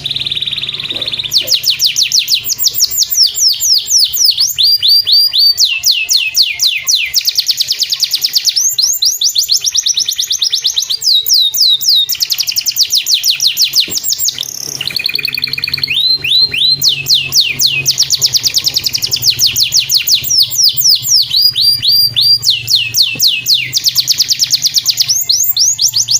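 Domestic canary singing a long, loud song made of fast trills: rapid runs of quick downward-sweeping notes, changing from one trill to the next, with a brief pause about halfway through.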